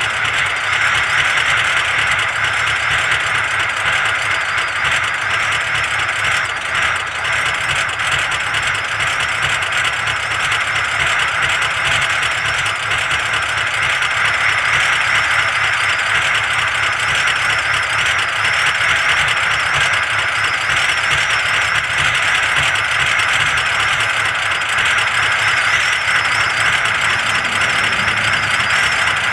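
Diesel engine idling steadily after a cold start in severe frost.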